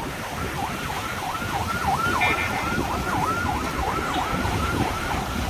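A siren wailing fast up and down, about two and a half sweeps a second, over a steady rush of wind and surf.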